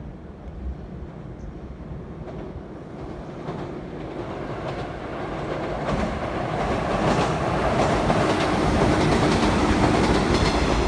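An electric train approaching on a rail bridge, growing steadily louder, with the click of wheels over rail joints coming faster and thicker from a few seconds in.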